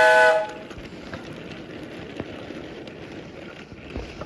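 A train whistle's steady, chord-like blast cuts off about half a second in. It is followed by a quieter steady running noise with a few faint clicks.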